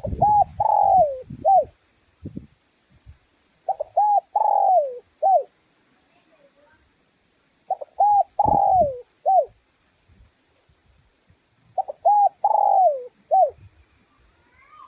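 Spotted dove cooing: a male's territorial coo repeated four times about four seconds apart, each phrase two short notes, a long falling note and a short final note. Low thumps sound under the first and third phrases.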